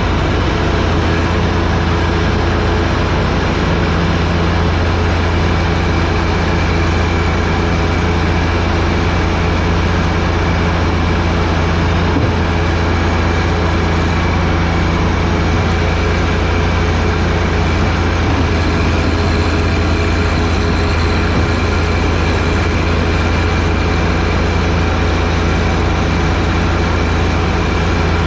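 John Deere 1025R sub-compact tractor's three-cylinder diesel engine running steadily, driving a front-mounted snowblower.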